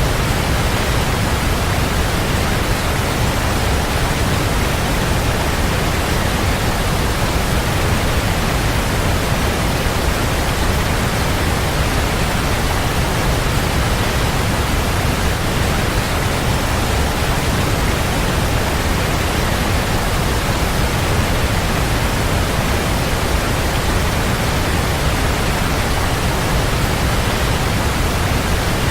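Waterfall: a steady, unbroken rush of falling water, full and deep, with no changes.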